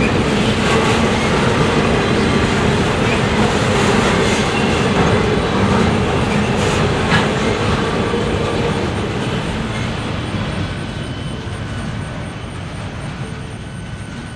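Freight train rolling past, steel wheels clattering on the rails with an occasional sharp click, then fading over the last few seconds as it moves away.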